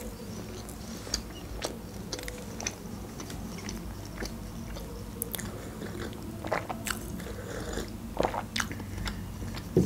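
Close-up mouth sounds of a person chewing a mouthful of toasted bread topped with ham, with scattered soft clicks and smacks. A few louder sounds come after about six seconds, as she takes sips from a glass mug of a drink near the end.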